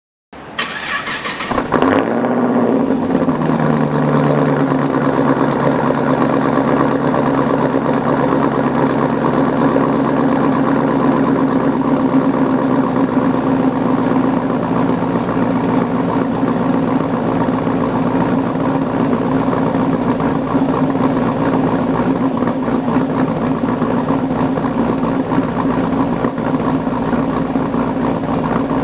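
Pontiac G8 GT's 6.0-litre V8 cranking over and catching about two seconds in with a brief flare, then settling from a slightly faster idle into a steady idle through its exhaust.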